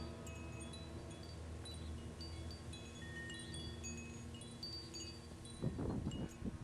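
Chimes tinkling, scattered high ringing notes at different pitches, with a steady low hum beneath and a brief louder rustle near the end.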